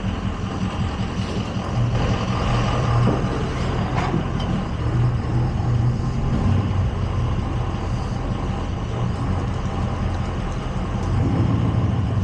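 Tow truck engine running steadily, getting louder about two seconds in, with one sharp click about four seconds in.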